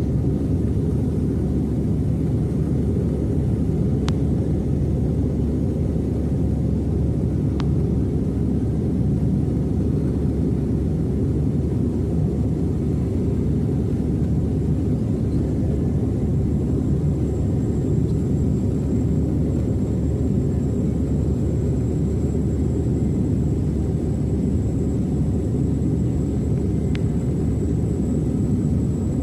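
Aircraft in flight: a steady low rumble that does not change, with a faint high whine joining about halfway through.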